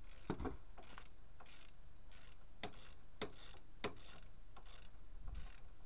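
Steady rhythmic mechanical ticking: a sharp click about every 0.6 seconds, with a softer rasp between the clicks.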